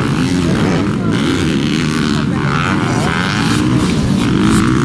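Several motocross dirt bikes racing, their engines revving up and down as riders work the throttle through turns and jumps, with many engine notes overlapping.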